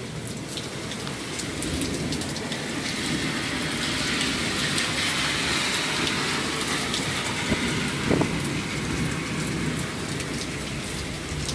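Heavy rain falling steadily, growing louder toward the middle, with a brief short sound about eight seconds in.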